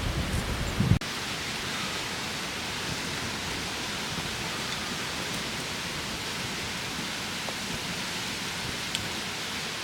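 Strong wind buffeting the microphone with a heavy low rumble, cut off suddenly about a second in. After that comes a steady, even rushing noise.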